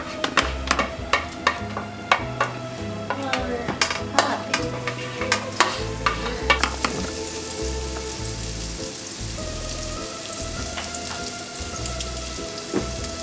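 Diced garlic and jalapeño sizzling in hot oil and butter in a nonstick pan, with a spatula clicking and scraping as it pushes them off a plate and stirs. The clicks thin out after about six seconds, leaving a steady sizzle, with background music underneath.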